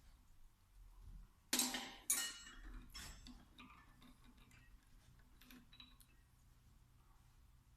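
Metal tools and injection-pump parts clinking on a workbench during the strip-down of a VE diesel injection pump: two sharp ringing clinks about a second and a half and two seconds in, then a few lighter clicks and taps.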